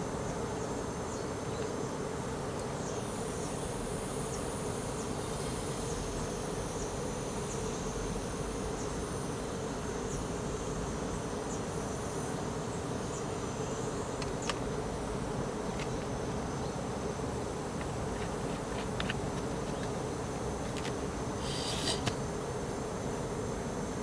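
Portable gas burner running steadily under a frying pan, a constant hiss and hum, with high thin bird calls over it and a few light clicks of utensils, one brief scrape near the end.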